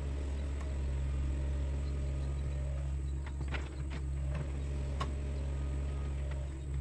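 Sunward mini excavator's diesel engine running steadily with a low drone, with a few short clanks a little after halfway and one more about five seconds in.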